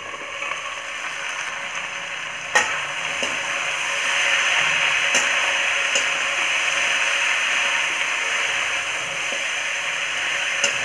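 Dried cauliflower, potatoes and chickpeas sizzling in hot oil in a metal kadhai while a slotted spatula stirs them, with a few sharp metal clinks. The sizzle gets louder about four seconds in, once the lid is off and the stirring begins.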